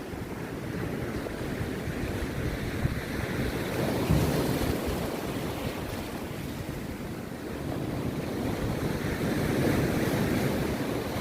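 Rough sea surf breaking on a beach, a steady rush of water that swells louder twice, about four seconds in and again near the end.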